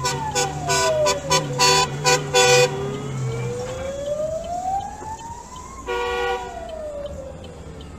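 Emergency vehicle siren wailing, its pitch slowly rising and falling, with a horn honking in a quick run of short blasts over the first few seconds and once more near the end.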